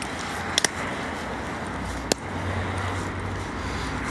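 Street traffic noise: a steady hum of passing cars, swelling a little past the middle, with a few sharp clicks, two close together about half a second in and one about two seconds in.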